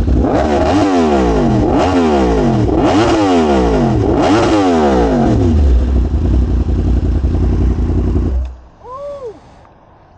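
Yamaha R1M's crossplane inline-four engine blipped hard four times in quick succession, then held at a steady note before stopping abruptly about eight seconds in.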